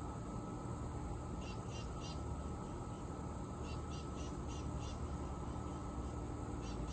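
Songbird chirping in short quick series: three notes about a second and a half in, six around four seconds in, and one more near the end. Under it runs a steady high insect drone and a low outdoor rumble.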